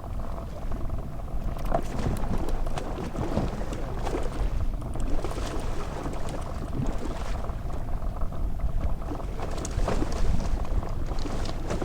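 Inflatable fishing boat under way on the sea: a steady low motor rumble with a faint whine, and water splashing irregularly against the hull.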